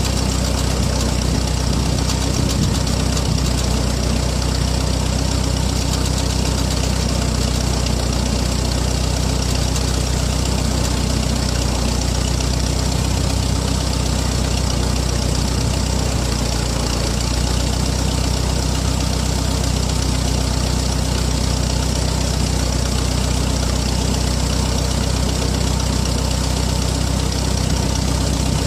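Backhoe engine running steadily at idle, with no change in speed.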